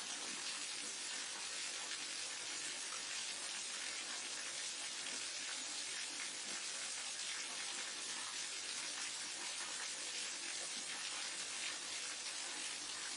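Small waterfall and mountain stream: water falling and rushing in a steady, even hiss.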